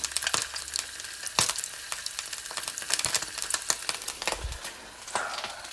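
Sausages frying and sizzling in a pan, with a steady crackle and many sharp spitting pops of hot oil. The sausages are still partly frozen, with ice on them.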